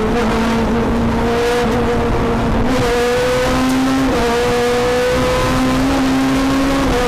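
Renault Clio F2000 rally car's four-cylinder engine running hard at high revs. The pitch holds high and dips briefly a few times before climbing again, as with gear changes under acceleration.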